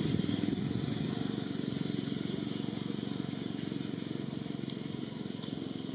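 A small engine running steadily, its fast pulsing slowly growing quieter.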